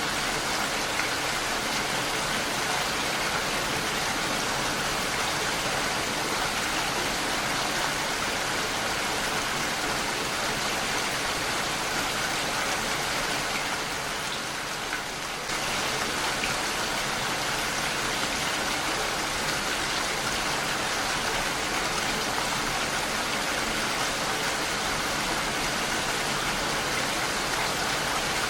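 Heavy rain pattering on a window pane: a steady, dense hiss of drops. It eases slightly just before the middle, then comes back at full strength suddenly.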